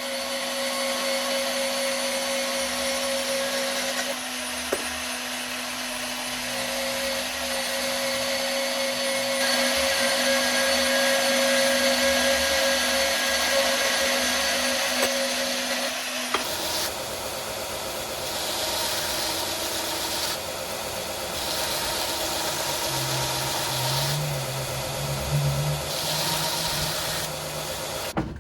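A motor-driven shop machine running steadily with a hum and a hiss. About 16 seconds in the sound changes abruptly to a rougher, brighter noise that rises and falls.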